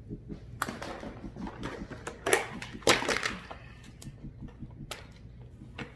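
A few sharp knocks and scraping clatters of kitchenware being handled, over a soft background music track with a steady low pulse.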